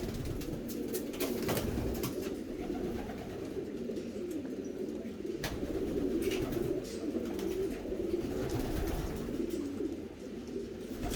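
A flock of racing pigeons cooing together in a steady, overlapping chorus, with a few sharp clicks scattered through it.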